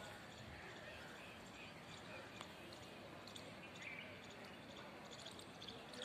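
Quiet outdoor background with a few faint, short bird chirps scattered through, mostly in the second half; the peacock itself does not call.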